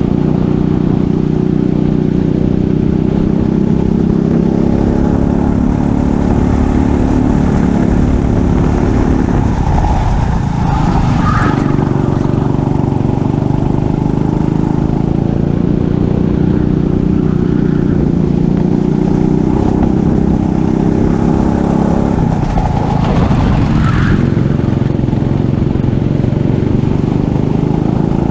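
Racing kart engine running hard, its note dropping and climbing back up twice, about ten seconds in and again a little after twenty seconds.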